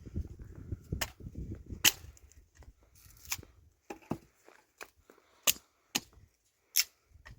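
A low rough rubbing for about the first two seconds, then a string of sharp snaps or clicks, irregular and about a second apart.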